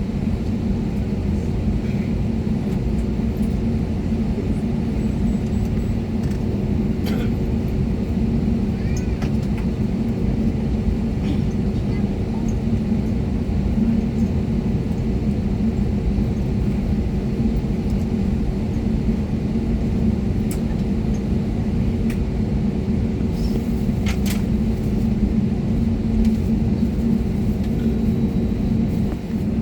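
Airbus A320neo cabin drone with the engines running on the ground: a steady low rumble with a constant hum, and a few faint clicks.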